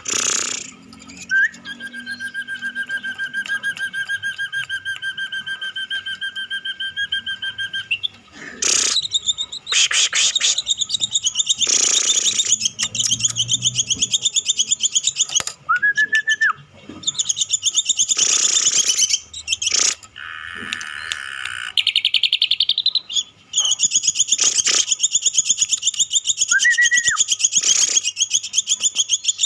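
Ashy drongo calling: long, fast-pulsed trills held at a steady pitch, switching between higher and lower pitches. Two short rising whistles break in, about halfway through and near the end.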